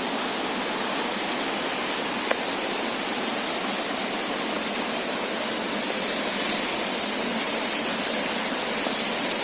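A roughly 40-metre waterfall, falling water making a steady, even hiss with no breaks, heaviest in the high range. A single faint click about two seconds in.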